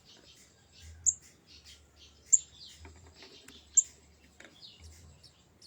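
A bird chirping: sharp, very high single chirps about every second and a half, with softer twittering notes between them.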